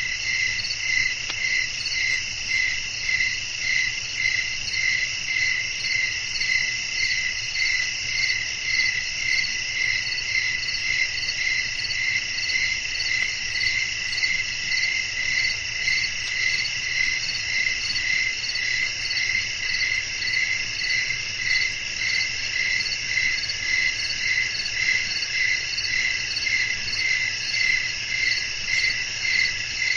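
Night chorus of crickets: steady, dense high-pitched chirping, with a pulse that swells about twice a second.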